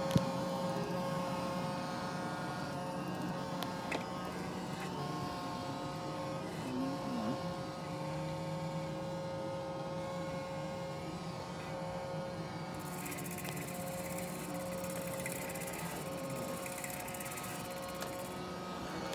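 Roomba j7+ robot vacuum running: a steady motor hum and whine. A high hiss joins it for several seconds about two-thirds of the way through.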